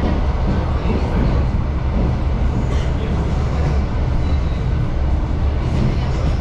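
Suburban electric train running between stops, heard from inside the carriage: a steady low rumble.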